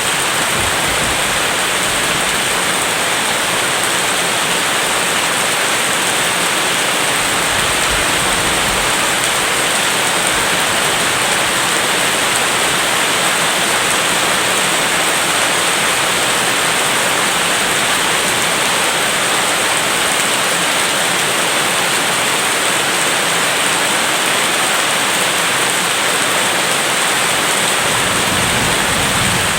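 Steady, even rain hiss with no let-up.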